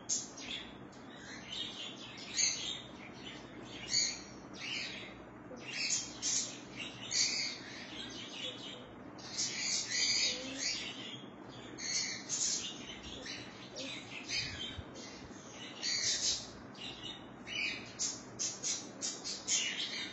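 Birds chirping: short high calls in quick, irregular series, coming faster near the end.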